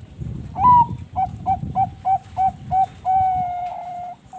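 Bangkok-bred zebra dove (perkutut bangkok) singing its cooing song. One opening note is followed by a run of about six short, even notes, about three a second, and the song ends on one long drawn-out note.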